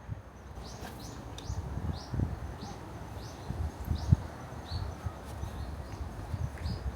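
A bird repeating a short, high, falling note every half second or so, over a low, gusting rumble of wind on the microphone.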